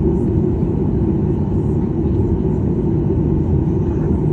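Steady low rumble from a jet airliner.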